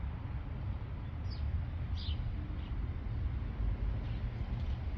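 Steady low rumble, with a few short falling bird chirps about one and two seconds in.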